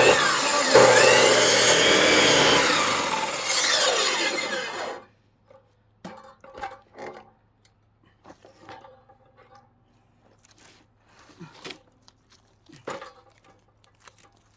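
Circular-blade power cutting saw cutting into a log for about five seconds, its pitch sagging and rising as the blade loads up in the wood, then stopping abruptly. Scattered light knocks from the log being handled follow.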